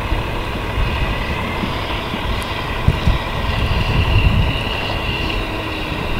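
Tow vehicle's engine running steadily as it backs the hydraulic boat trailer down the ramp, with a gusty low rumble of wind on the microphone.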